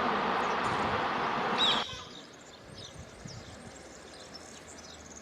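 A train running through the station, a loud steady rush of wheel and air noise that ends suddenly a little under two seconds in with a brief high squeal. Then small birds chirping over quiet background.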